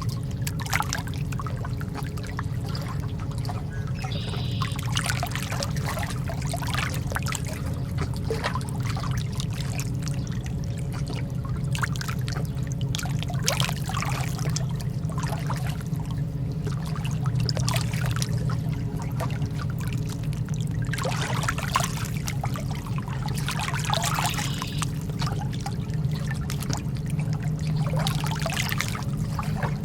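Calm lake water lapping and trickling in small, irregular splashes over a steady low rumble.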